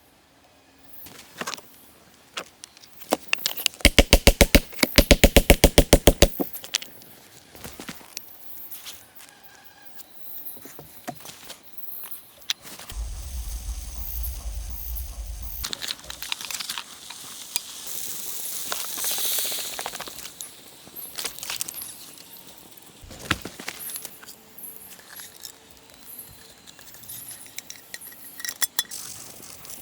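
Camp gear being handled: scattered clicks, rattles and knocks. A few seconds in comes a fast, even run of loud clicks lasting about two seconds, and later a stretch of rustling hiss.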